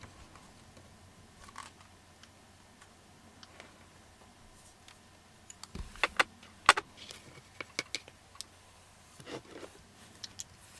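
A few sharp clicks and light taps of small makeup items being handled, most of them in a cluster about six to eight seconds in, with a few more near the end.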